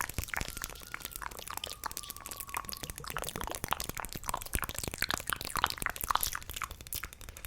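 Close-miked ASMR mouth sounds, rapid wet clicks and smacks, mixed with fingernail tapping on hair clips. A faint thin tone sounds through the first three seconds.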